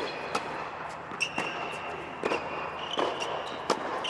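Tennis balls being struck and bouncing on an indoor court, a sharp knock every second or so, with sneakers squeaking on the court surface.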